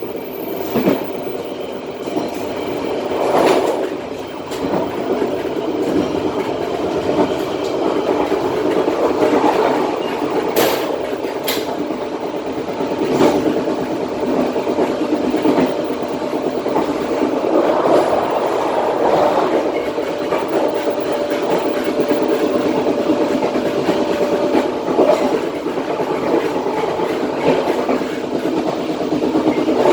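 Passenger train coaches running along the track, heard from the rear of the last coach: a steady rumble of wheels on rail with clickety-clack over the joints and a few sharp clicks. A faint steady whine appears about two-thirds of the way through.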